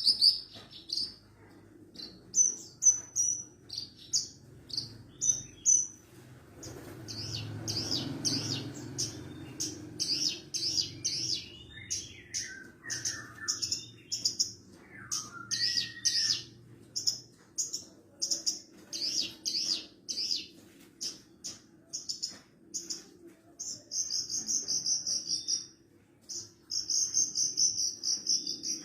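Horsfield's bush lark (branjangan, parva race) singing: a fast, continuous run of short, high chirps and buzzy trills, with a few lower slurred notes mixed in. A faint low rumble sits under the song for a stretch in the first half.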